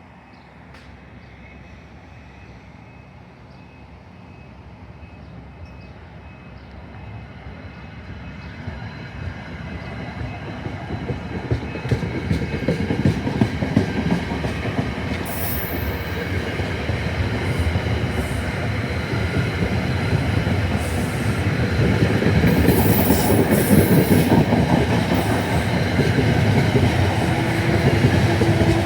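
A commuter train approaching on the rails, growing steadily louder throughout, with the rumble and clatter of wheels on track. Short high-pitched wheel squeals come in from about halfway through.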